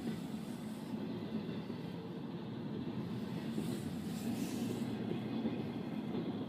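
Train rolling past with a steady low rumble, and a brief higher hiss over it about three and a half seconds in.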